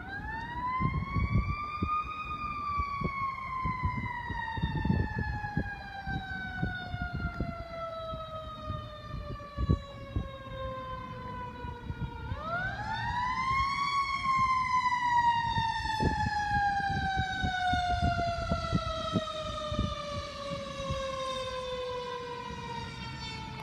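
Fire truck siren winding up twice: each time the pitch climbs quickly for about two seconds, then sinks slowly for about ten seconds, the slow coast-down of a mechanical siren. The truck's engine and road noise rumble underneath.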